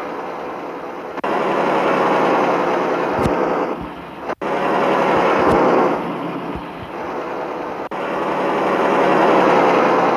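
Mitsubishi Fuso truck's diesel engine running, with road and driving noise, the sound jumping abruptly in level a few times and dropping out for an instant near the middle.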